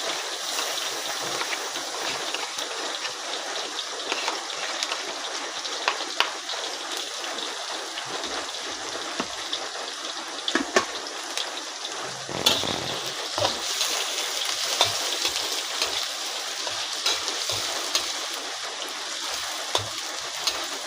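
Shallots and garlic frying in hot oil in a wok: a steady sizzle with many sharp crackles, and a louder knock about halfway through.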